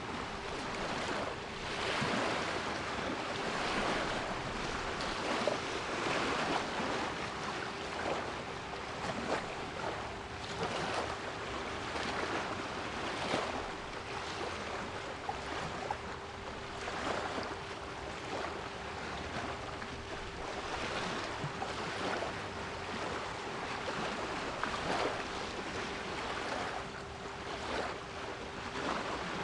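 Sea waves breaking and washing in swells every few seconds, with a steady 396 Hz pure tone sounding underneath.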